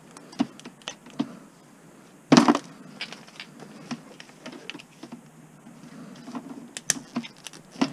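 Irregular small plastic clicks and snaps as Christmas light bulbs and sockets are pulled off their wire by hand, with one louder crunch about two and a half seconds in. The plastic is cold and brittle, so it cracks and comes off hard.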